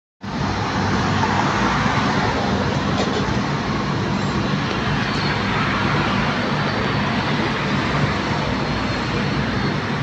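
Airbus A320 jet engines running: a loud, steady rushing roar with a low hum underneath, cutting in abruptly at the start.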